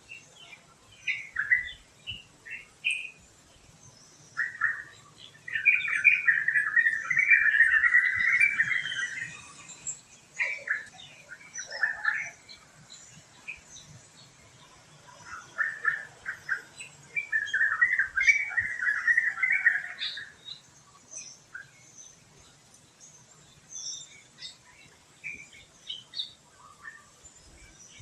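Birds chirping and calling, with two longer, louder bursts of rapid chatter, one about five seconds in and another around seventeen seconds.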